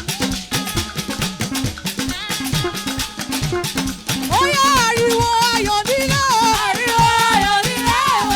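Upbeat praise-band music: drums and a shaker keep a fast, steady beat, and about four seconds in a held, wavering melody line comes in and the music grows louder.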